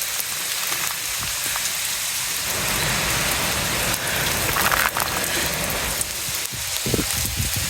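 Heavy rain falling steadily, a dense hiss of drops on surfaces, with a couple of short low thumps near the end.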